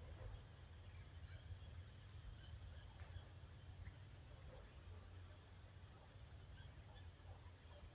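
Faint birds chirping: a few short, high chirps scattered through, over a steady low background rumble.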